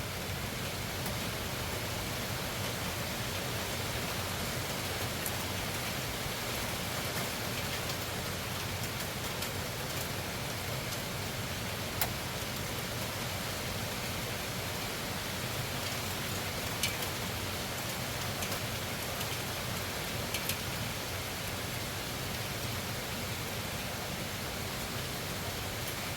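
Loud, steady rain: an even hiss of rainfall with a few single sharp drip taps standing out, several seconds apart.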